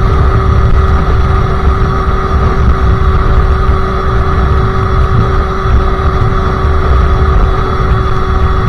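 Sherco SM-R 50cc supermoto's two-stroke engine, fitted with a KRM exhaust and a Polini CP 17.5 carburettor, running at a steady pitch under way, over a heavy low rumble.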